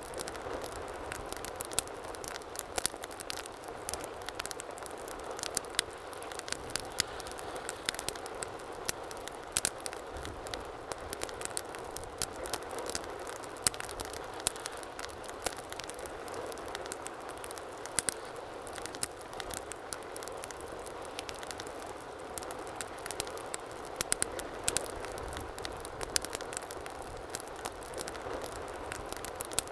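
Wood fire crackling in a fireplace: a steady low hiss with many sharp pops and snaps scattered irregularly throughout.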